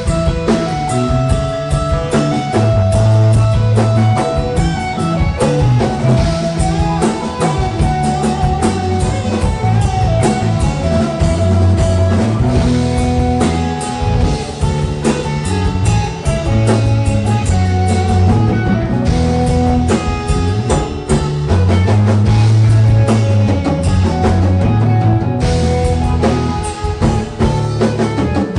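Rock band playing an instrumental passage: guitar notes held over a moving bass line and a drum kit with frequent cymbal hits.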